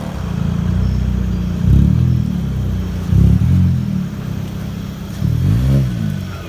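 A car engine idling deep and loud, blipped three times: revs climb and drop about two, three and six seconds in.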